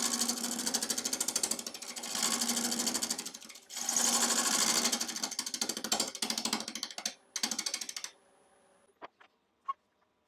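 A turning tool cutting the outside of a rough, out-of-round ash offcut spinning on a wood lathe. The cut is interrupted, so it makes a rapid chattering tick. The cutting comes in passes with a short break about three and a half seconds in, and stops about eight seconds in, leaving only a few faint clicks.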